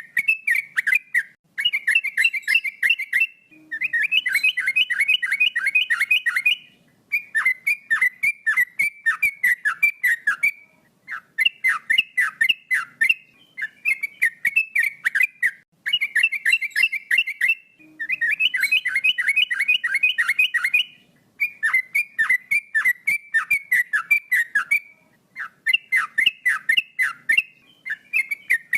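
Male yellow-vented bulbul singing: phrases of rapid, bubbling warbled notes, each one to three seconds long, repeated over and over with short pauses between them.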